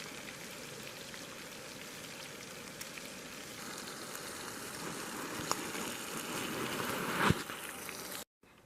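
Bacon frying, a steady crackling sizzle of hot fat that grows a little louder partway through, with a few sharp pops, the loudest near the end. It stops abruptly just before the end.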